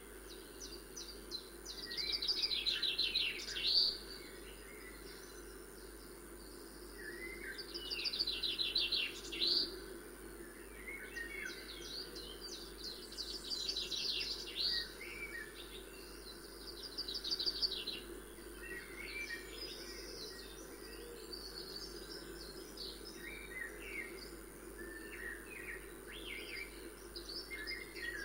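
Birds singing: bursts of song with fast trills come every few seconds, giving way to scattered short chirps in the second half, over a steady low hum.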